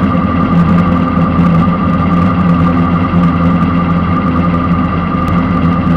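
415 cubic-inch small-block Chevrolet V8 on methanol idling steadily, heard from inside the car's stripped race cabin.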